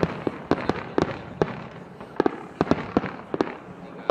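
Fireworks display: an uneven, rapid run of sharp bangs, about three a second and bunched in clusters, over a steady rumbling haze of further bursts.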